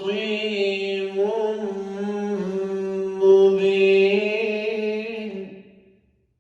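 A man's voice reciting the Quran in melodic tajweed style, drawing out the closing words of a verse on long, steadily held notes. The voice fades out near the end of the verse.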